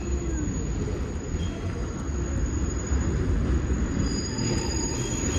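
R62 subway car running through the City Hall Loop, heard from inside the car: a steady rumble of wheels on rail with faint high squealing tones from the wheels.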